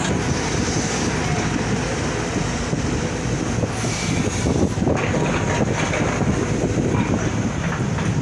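Excavator at work digging: its diesel engine running steadily under load, with a continual rattle of metal.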